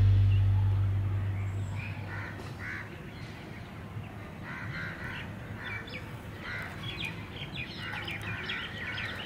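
Background music fading out over the first two seconds, then birds calling outdoors: short calls repeated many times, growing busier near the end.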